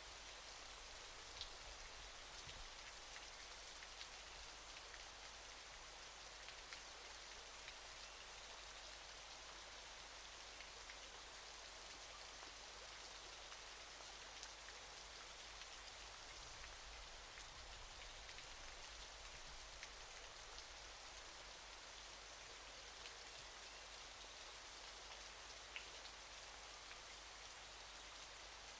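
Faint, steady hiss of falling water from a waterfall, with a few scattered droplet ticks.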